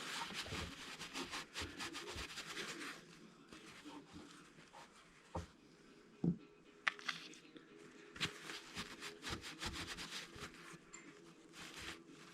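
Paper napkins rustling and crinkling as small drivetrain parts are wiped down. The rustling comes in two spells, with a couple of soft knocks of parts being handled in between.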